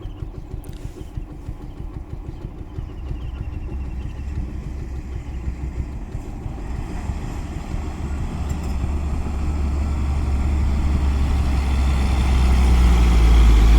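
Loaded lorry's diesel engine running, its low rumble growing steadily louder as the truck draws near.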